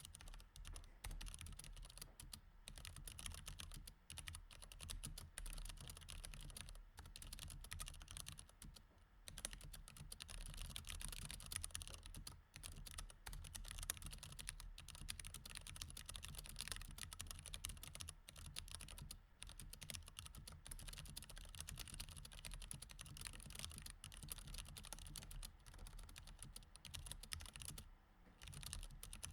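Typing on a mechanical keyboard with Cherry MX Red switches: a quiet, continuous stream of key clicks with a few short pauses.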